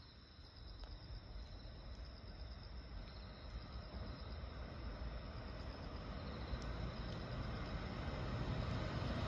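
Approaching JR East E231 series electric commuter train: a low rumble that grows steadily louder as it nears. Insects trill faintly at a high pitch throughout.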